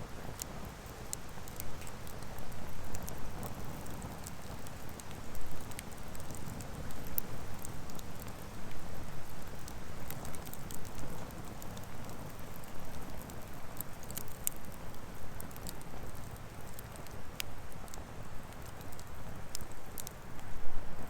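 Wood fire burning and crackling, with scattered sharp pops and snaps over a low, steady rush.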